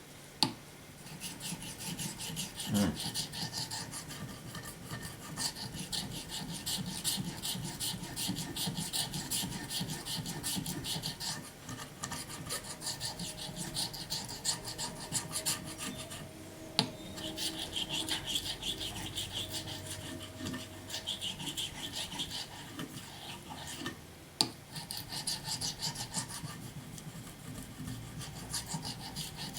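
A steel knife blade being stroked back and forth over a wet 5000-grit Naniwa Chosera waterstone: a continuous gritty rasp of rapid sharpening strokes, with a sharp knock now and then. This is the final, finishing stone of the edge.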